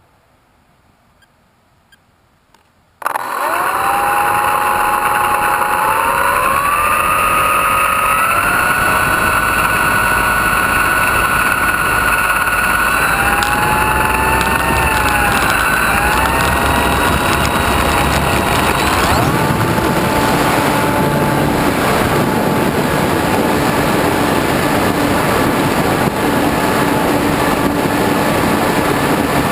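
Model airplane's motor and propeller starting suddenly about three seconds in, a whine that rises in pitch in steps as the throttle comes up, under heavy wind rush on the onboard camera. Past the middle the whine fades, leaving a steady rush of wind.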